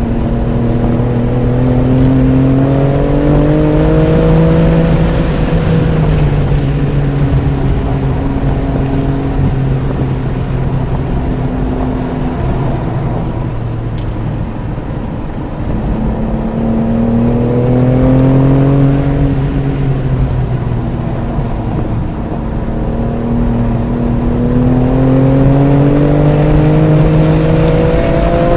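BMW F80 M3 Competition's twin-turbo inline-six under hard track driving: the engine pitch climbs under acceleration, drops back at an upshift a few seconds in, sags when the driver lifts off around the middle, then rises again twice through the rest. Road and wind noise run underneath.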